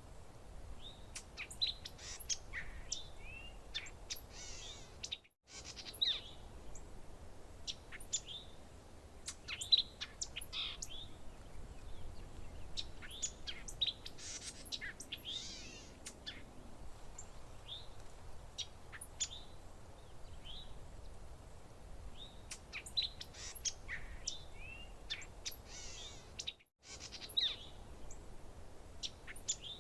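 Several songbirds chirping and trilling in short, overlapping calls over a faint steady low background noise. The whole sound cuts out briefly twice, about five seconds in and near the end.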